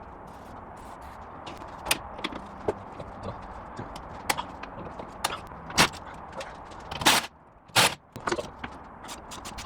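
Scattered knocks and clicks of work on the stuck differential and propshaft joint, with two louder, longer bursts about seven and eight seconds in, over a steady low hum.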